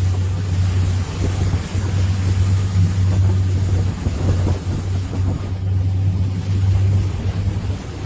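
Motorboat engine running steadily, a low hum, with wind buffeting the microphone.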